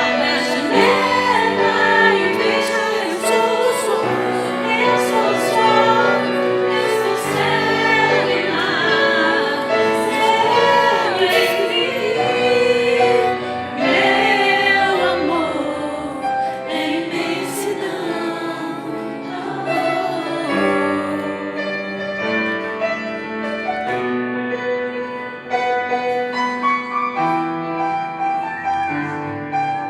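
A woman singing a slow ballad over piano accompaniment. Her voice stops about two-thirds of the way through, and the piano plays on alone.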